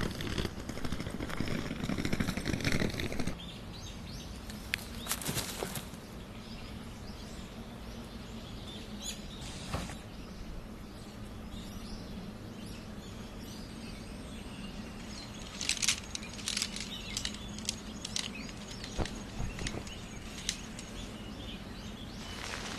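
Outdoor ambience: steady background noise with a faint low hum, and scattered short clicks and knocks, clustered about sixteen seconds in.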